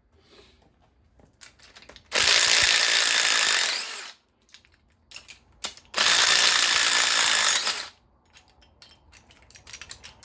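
A power wrench running in two bursts of about two seconds each, working bolts loose on an engine, with light metallic clinks of tools and parts between and after.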